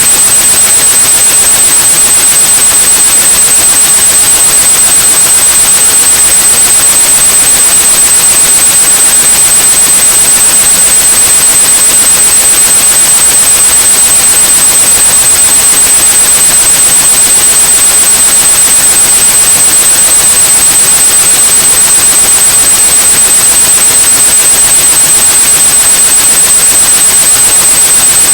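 A steady high-pitched 8100 Hz sine tone over white-noise hiss, both held unchanging and loud, with a rapid even flutter in the level. This is a tinnitus-masking sound.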